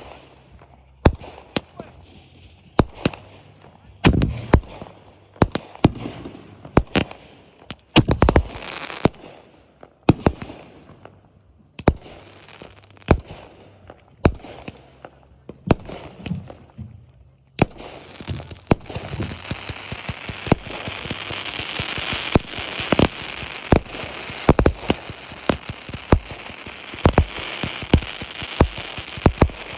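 Fireworks going off: a string of sharp bangs, roughly one a second. About two-thirds of the way in, a dense crackling from crackle-effect shells sets in and continues under further bangs.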